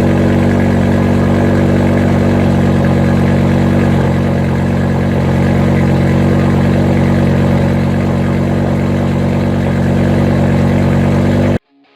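BMW S85B50 5.0-litre V10 idling steadily, its note cut off abruptly near the end.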